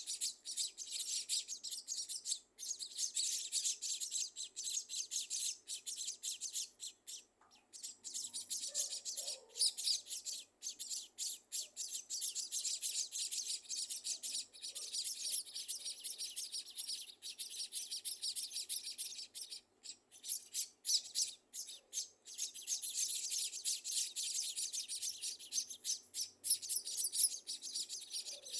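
Scaly-breasted munia nestlings in the nest giving a continuous chorus of rapid, high-pitched chirps, broken by a few brief pauses.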